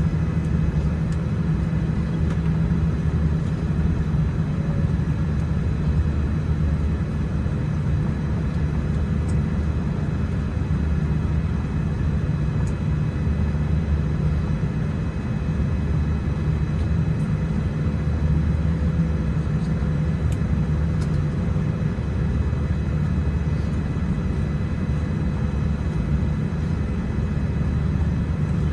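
Steady low rumble of a Boeing 787-10's engines and air systems heard inside the passenger cabin, with a few faint steady whining tones above it.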